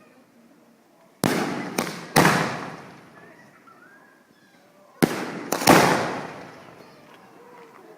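Fireworks going off in a bonfire: a quick run of three sharp bangs about a second in, then two more about five seconds in, each bang trailing off in a long fading echo.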